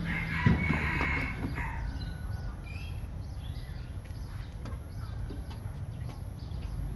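Birds calling: a call in the first second and a half, then scattered short high chirps, with a sharp thump about half a second in.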